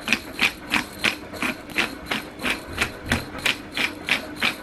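Rhythmic kitchen-utensil strokes while preparing a chicken marinade, short sharp clicks at about three a second in a steady beat.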